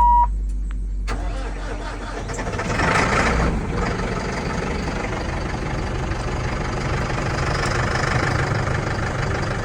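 A brief electronic beep, then a Massey Ferguson 5S.145 tractor's diesel engine cranking and catching about three seconds in, and settling into a steady idle.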